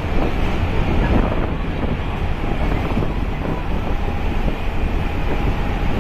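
Steady rumble of a MEMU electric multiple-unit passenger train running along the track, with wind buffeting the microphone.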